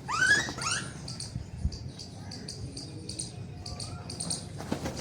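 A flock of sparrows chirping in quick, high, overlapping notes, with two louder rising calls in the first second.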